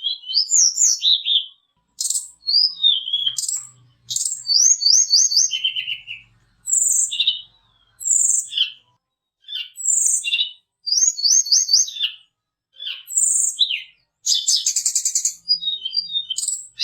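Song of a tledekan gunung (sulingan), a small Indonesian songbird: short, high whistled phrases and chirps, some as quick runs of repeated notes, coming every second or so with brief silent gaps between them.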